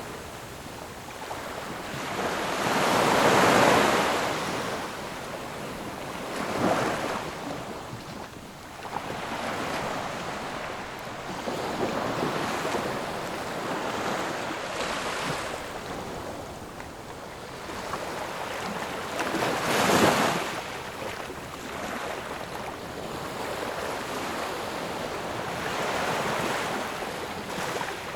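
Ocean surf: waves breaking and washing in, the rushing sound swelling and fading every few seconds. The biggest breakers come about three seconds in and about twenty seconds in.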